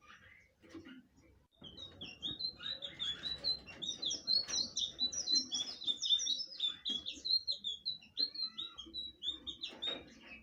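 Blue flycatcher (sikatan biru) singing. A fast, unbroken run of short, high chirping notes starts about a second and a half in and fades near the end.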